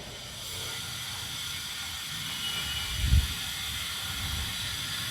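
Steady background hiss, with a brief low thump about three seconds in.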